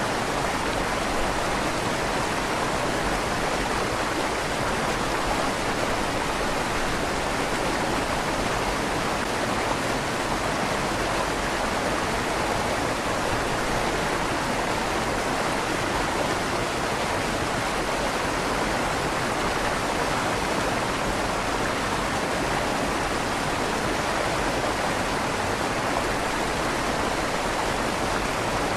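River water flowing through a tunnel under a stone bridge: a steady, even rushing with a slight echo off the tunnel's stone walls.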